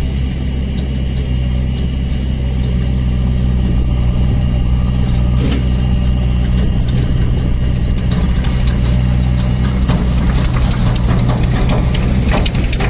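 Heavy diesel engine idling steadily. From about ten seconds in, a growing mix of clicks and rattles joins it.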